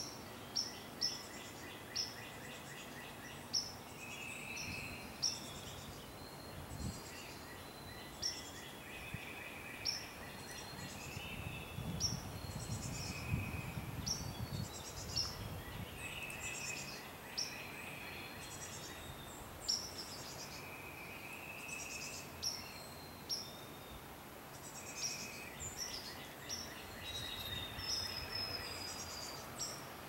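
Songbirds chirping in the background: short, high calls repeating every second or so, with some longer warbled phrases mixed in.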